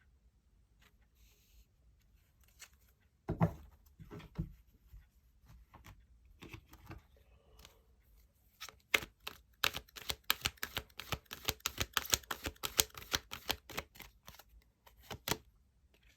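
Tarot cards being handled and shuffled: a few soft knocks a little over three seconds in, then a long run of quick, crisp card clicks from about nine seconds to fifteen seconds.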